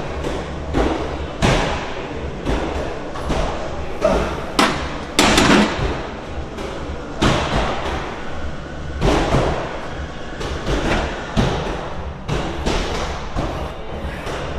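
Irregularly spaced thuds and knocks of gym equipment, about one or two a second, with a louder cluster about five seconds in, over a steady low hum.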